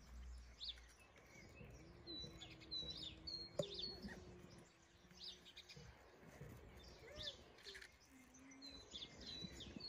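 Faint birdsong: small birds chirping and twittering, with a run of short, high, repeated notes a couple of seconds in and again near the end.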